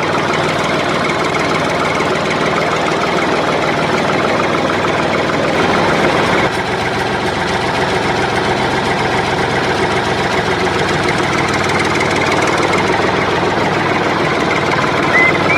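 Motor of a DIY mini toy tractor running steadily as it pulls a trolley loaded with Parle-G biscuits, with a slight drop in level about six and a half seconds in.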